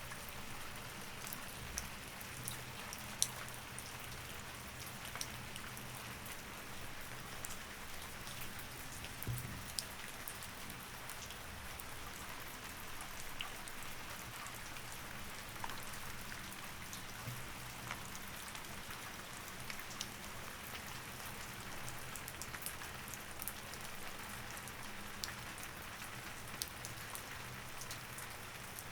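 Steady rain falling: a constant hiss of rain with scattered sharp ticks of drops.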